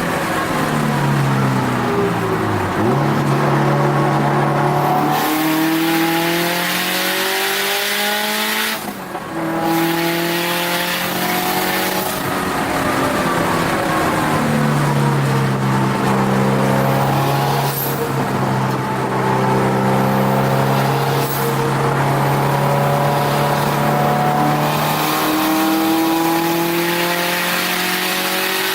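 Turbocharged Subaru WRX STi race car's engine heard from inside the cabin while lapping at speed. The revs fall at the start, then climb and step through gear changes. There is a brief lift about nine seconds in, a long steady pull through the middle, and the revs rise again near the end.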